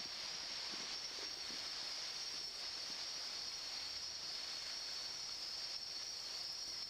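Steady high-pitched chorus of night insects over a faint hiss, unchanging throughout.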